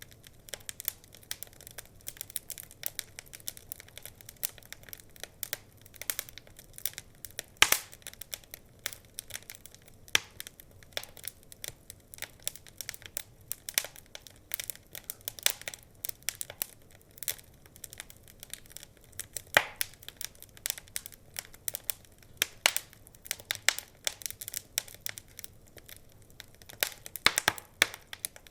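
Wood fire crackling in a fireplace: a dense run of irregular pops and snaps over a faint hiss, with a few louder pops along the way.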